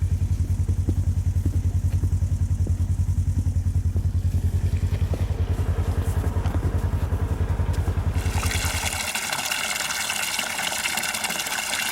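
A small engine idling with a steady low pulse, which shuts off about nine seconds in. Just before it stops, water starts rushing hard into a stock tank that is being filled for the cattle.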